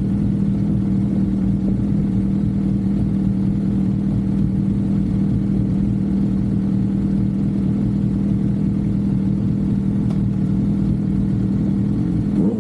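Suzuki GSX-R750's inline-four engine running at steady revs, a constant even engine note while cruising.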